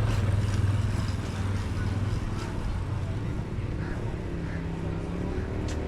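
A motor vehicle's engine running steadily as a low hum, shifting to a lower hum about four and a half seconds in, over general street noise.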